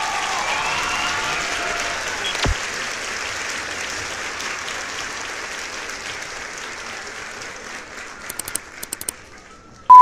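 Crowd applause and cheering, with a few whistles at first, fading out slowly; a single thump cuts in about two and a half seconds in. A few clicks come near the end, then a short, loud, high beep like a film-countdown leader beep right at the end.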